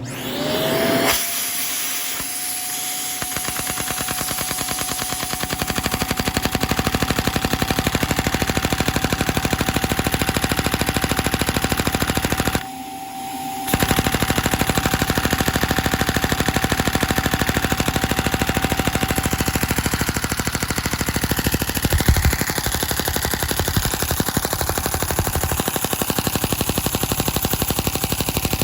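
Lego flat-head vacuum engine running fast with a rapid, continuous clatter, over a steady whine that rises in pitch as it starts up. The sound drops away for about a second near the middle, and there is a louder knock later on.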